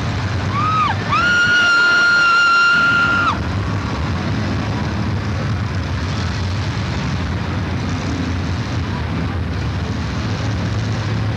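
Demolition derby cars' engines running as the cars ram one another, a steady low rumble. About a second in, a short rising-and-falling high tone is followed by a loud, steady high-pitched tone held for about two seconds that then cuts off.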